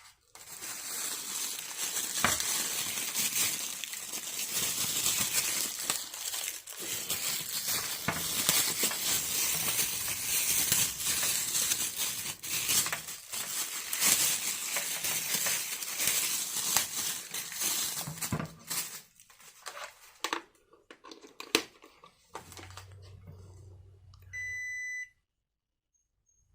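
Packaging being handled: crinkling, rustling plastic with scattered clicks and knocks. Near the end a low hum starts, a short electronic beep sounds, and then it all cuts off.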